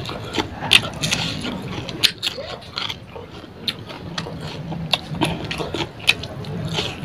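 Close-up wet chewing and lip-smacking of a mouthful of rice and fish curry eaten by hand: many irregular short smacks and clicks.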